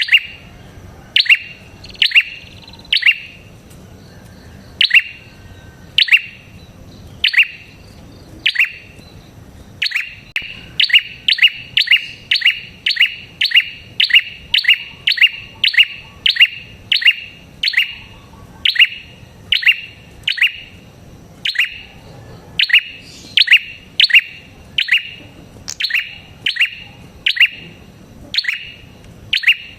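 Red-headed prenjak calling: a long series of short, sharp chirps that each drop quickly in pitch. They come about one a second, then speed up into runs of two or three a second.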